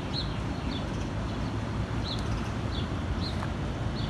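A small songbird chirping, short high chirps about six times with irregular gaps, over a steady low background rumble.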